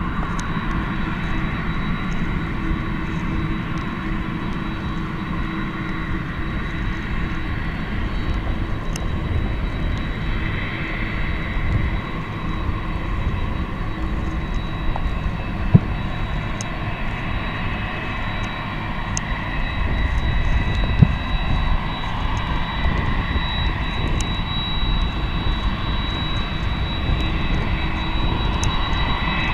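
Boeing 767-300ER jet engines running steadily, a rushing drone with a thin high whine over it. Two sharp clicks stand out partway through.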